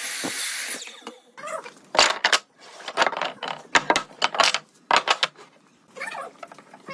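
A power tool's running noise fades out under a second in. It is followed by a series of irregular sharp knocks and clatters, like wood pieces being handled and set down.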